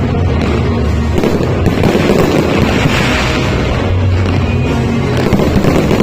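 Fireworks crackling and booming in a continuous dense barrage, with music playing along.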